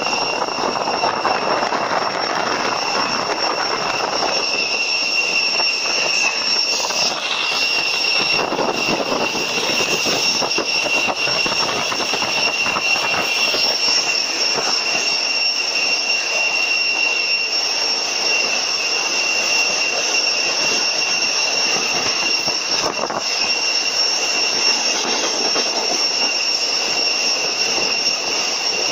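Passenger train running steadily across a bridge, heard from inside the carriage: an even running noise with a constant high-pitched whine over it.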